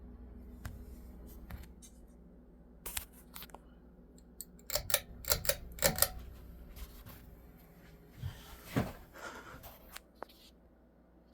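Harbor Breeze Calera ceiling fan motor humming steadily, under a series of sharp clicks and rattles. The clicks come thickest about three and five to six seconds in, with a louder knock near the end. The low hum thins shortly before the end.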